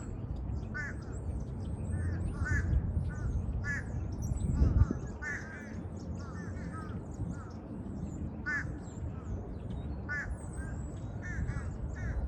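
Birds calling over and over in short arched calls, with higher, thinner chirping above them. A low rumble runs underneath, with a thump about halfway through.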